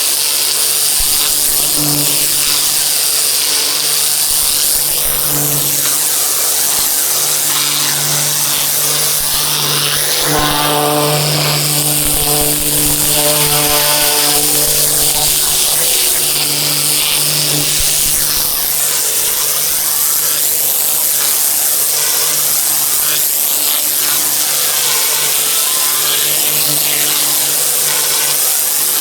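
Pressure washer running and spraying its water jet: a loud, steady hiss over the steady hum of the machine's motor, which shifts in pitch for a while midway.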